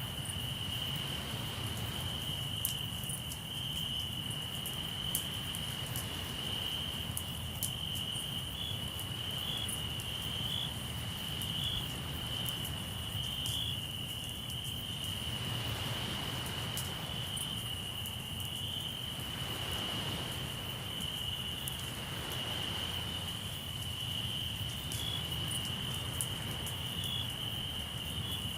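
Crickets trilling steadily on one high pitch, with scattered sharp crackles from a campfire and a low rumble of sea surf that swells twice near the middle.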